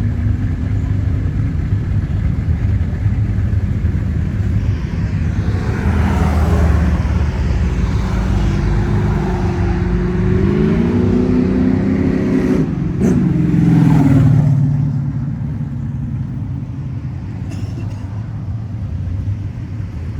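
Engines of passing classic cars rumbling steadily. About ten seconds in, one engine revs up, rising in pitch, with a sharp crack near its peak, then drops away.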